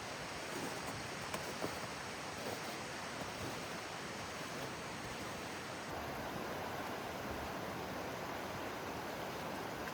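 River rapids rushing steadily, a constant roar of fast water. A few faint clicks sound in the first two seconds.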